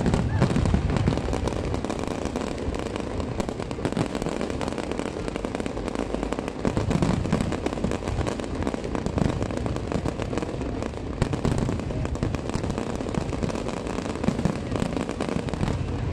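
Barrage of aerial fireworks bursting without a pause, dense crackling over repeated deeper booms.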